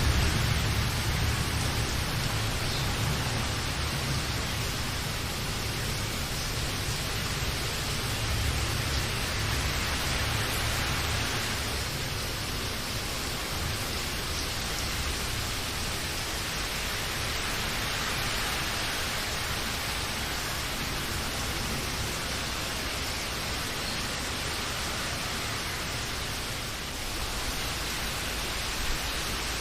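Steady rain, an even hiss with no breaks, with a low rumble easing away over the first several seconds.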